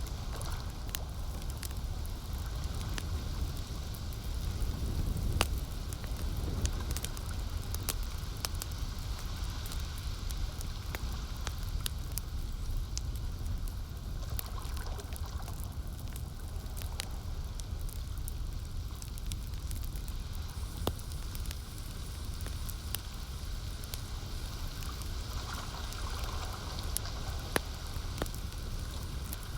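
Campfire crackling with irregular sharp pops, a few louder than the rest, over a steady low wash of lake water lapping.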